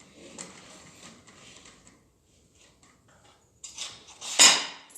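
Crankshaft of a G4NA engine being turned over by hand with a wrench, a faint scratchy clicking of metal parts, then a few sharp knocks near the end, the loudest about four and a half seconds in.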